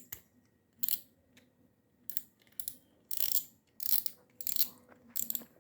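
Exori Atom spinning reel worked by hand, giving a series of short, irregular bursts of raspy ratcheting clicks. The reel is stiff from rusted bearings.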